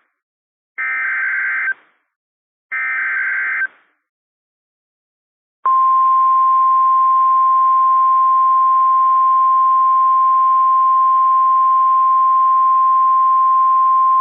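NOAA Weather Radio emergency alert signal: two short SAME (Specific Area Message Encoding) data bursts about a second apart, then, about six seconds in, the steady 1050 Hz warning alarm tone, one loud held tone. It announces a weather warning that is about to be broadcast, here a severe thunderstorm warning.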